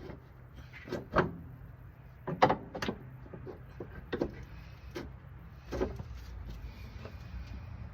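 Scattered knocks and clunks of tools and metal parts during suspension work under a car, the loudest about two and a half seconds in, over a low steady hum.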